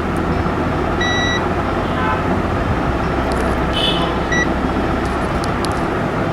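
Steady rumbling background noise with a low hum, and two brief high beeps, a longer one about a second in and a short one about four seconds in.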